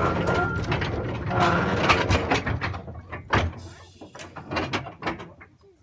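Small ride-on train rumbling and clanking as it slows, with a thin steady squeal early on. The knocks and clanks grow sparser and quieter as it comes to a stop.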